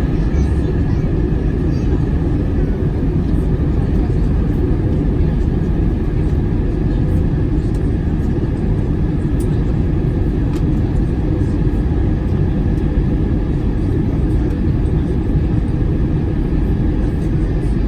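Steady engine and airflow noise of an airplane in flight, heard from inside the cabin: an even, low-heavy rush that does not change.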